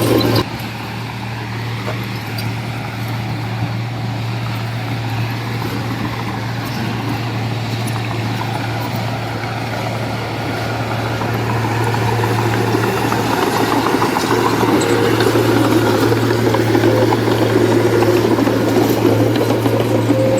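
Diesel engine of heavy earth-moving machinery running steadily with a low hum, growing louder about twelve seconds in as the machine works harder or comes closer.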